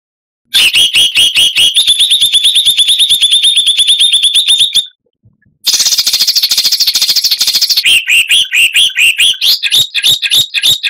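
Recorded songbird song of fast, rapid-fire sharp notes repeated about nine times a second, the dense 'tembakan' bursts used in masteran to train songbirds. The run stops dead near the middle, then starts again, and the notes become quick rising sweeps.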